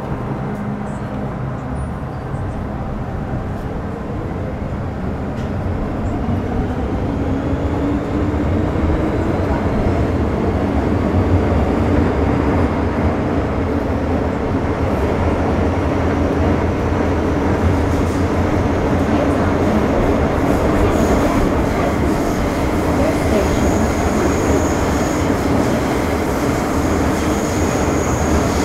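Metro Cammell M-Train (MTR Urban Line EMU) heard from inside the car as it pulls away and accelerates, its GEC GTO chopper traction whine rising in pitch over the first ten seconds or so, then settling into steady running noise from wheels and car. A steady high tone comes in near the end.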